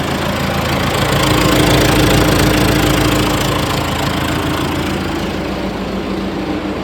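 John Deere 450C crawler dozer's diesel engine running, on a test run of its freshly repacked blade lift cylinders. From about a second in it grows louder and a steady whine comes in, easing back by about four seconds.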